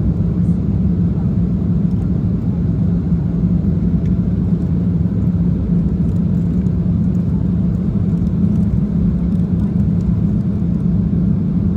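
Steady airliner cabin noise in flight: the constant low rumble of the jet engines and airflow heard from inside the cabin, with a steady low hum and no change in level.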